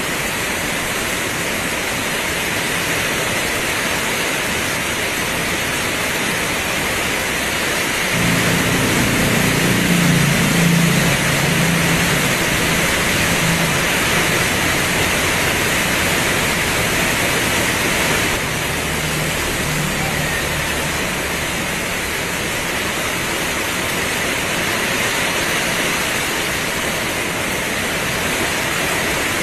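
Heavy rain pouring steadily, a dense, even hiss. About a quarter of the way in a low rumble joins it for several seconds, then fades.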